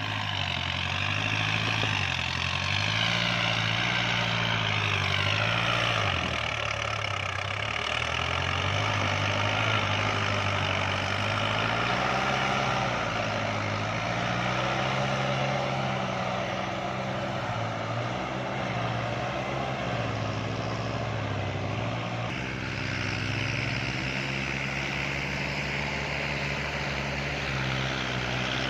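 Kubota farm tractor's diesel engine running hard while pulling a rotary tiller through wet paddy mud. Its pitch rises and falls as the load changes, over a steady churning noise.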